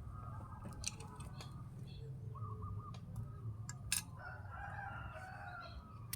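A rooster crowing in one long call near the end, with a short run of clucking notes before it. Two sharp clicks come about a second in and about four seconds in.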